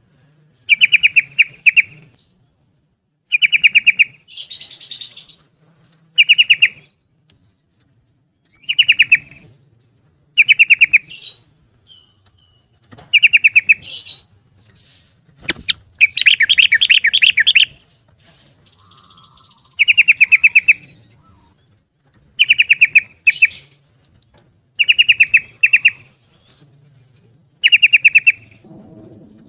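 Yellow-vented bulbul (trucuk) singing its rapid bubbling "ropel" song: short bursts of quickly repeated notes, each about a second long, coming every couple of seconds. A single sharp click falls about halfway through.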